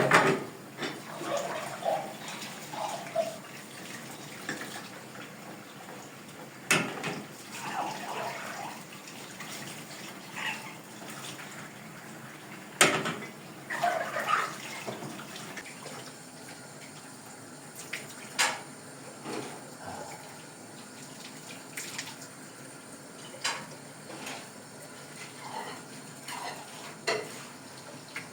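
Water splashing and trickling, with scattered sharp clinks and knocks of pots and dishes.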